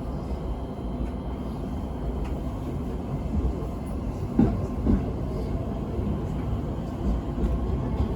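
Train running on the rails: a steady low rumble, with two short knocks about half a second apart midway.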